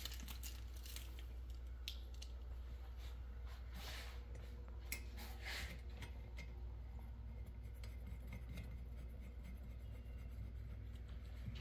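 Wiper-arm retaining nut being threaded by hand onto its spindle: a few faint small metallic clicks and scrapes, mostly in the first half, over a steady low hum.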